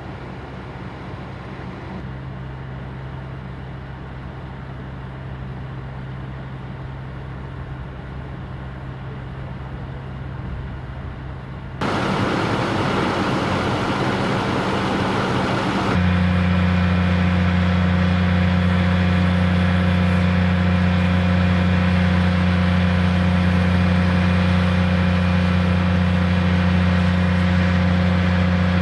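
Steady, loud engine noise that changes abruptly twice, getting louder each time.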